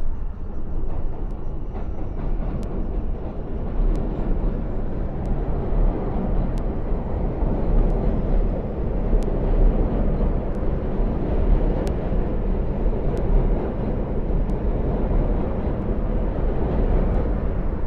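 New York subway train rumbling steadily across the Williamsburg Bridge, with faint regular clicks about every second and a half.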